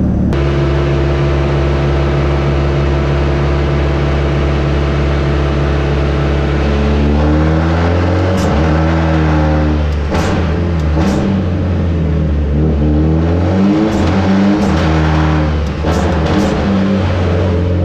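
Mitsubishi Evo 8's turbocharged 4G63 four-cylinder engine, built on a billet Bullet block, idling steadily, then revved in repeated blips from about seven seconds in, the revs rising and falling. A few sharp cracks come among the blips.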